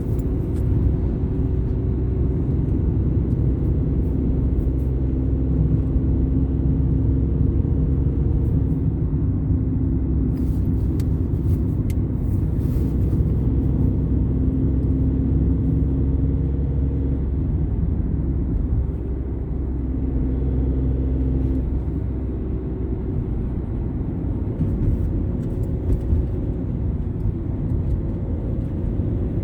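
Car engine and road noise heard from inside the cabin while driving: a steady low rumble with an engine hum that shifts in pitch now and then.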